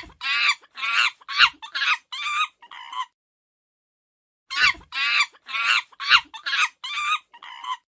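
Two runs of short, rapid, pitched animal calls, seven or eight calls in each run and each run about three seconds long, with a silent gap of about a second and a half between them.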